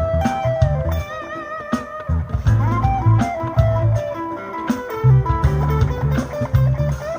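Overdriven electric guitar, a Gusta GST03 with three single-coil pickups through a DTC Mosky overdrive pedal and a Fernandes FA-15 amp, playing a bluesy single-note lead in A minor with bent, vibrato-laden notes.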